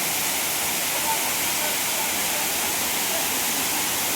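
Waterfall running: a steady, even rush of falling water that does not change.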